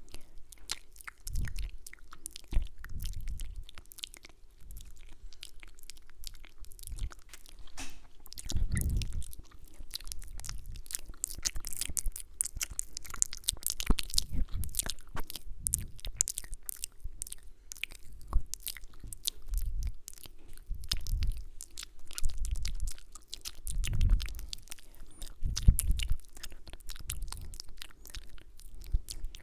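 Close-miked mouth sounds: rapid wet clicks, lip smacks and kisses, with soft low thumps every few seconds.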